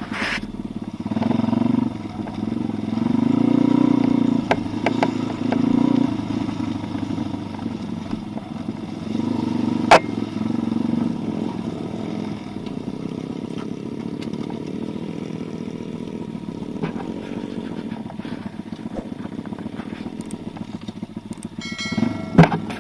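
Pit bike's single-cylinder engine revving in surges, then running more steadily, with a sharp knock about ten seconds in and another near the end.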